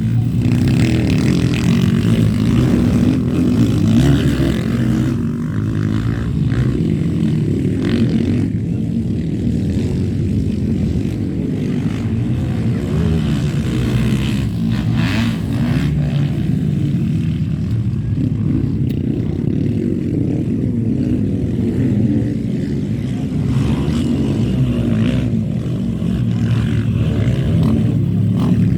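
Motocross bikes' engines running, a steady low drone with no single sharp event.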